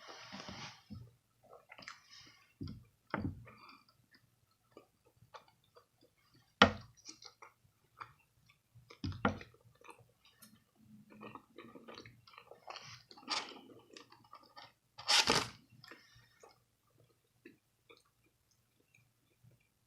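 A person chewing and crunching food close to the microphone, in irregular bites with short clicks, and a few louder sharp sounds about six and nine seconds in and a longer loud crunch about fifteen seconds in.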